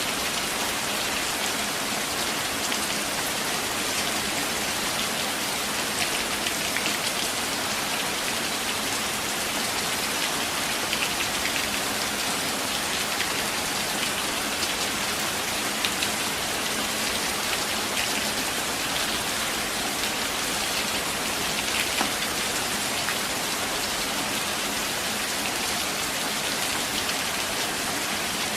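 Steady rain falling in a forest, an even hiss with scattered ticks of individual drops.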